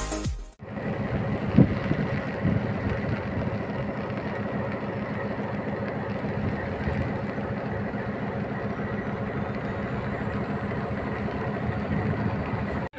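A train running on the tracks: a steady rumble of wheels on rail. The tail of a music jingle cuts off in the first half second.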